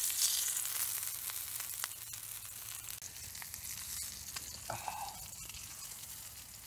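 Bacon-wrapped steak sizzling in a cast-iron skillet, with scattered small pops; the sizzle gradually dies down.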